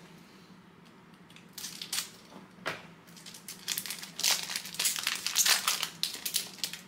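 Plastic trading card pack wrapper crinkling as it is torn open and crumpled, in repeated rustling bursts that start about a second and a half in and are busiest near the end.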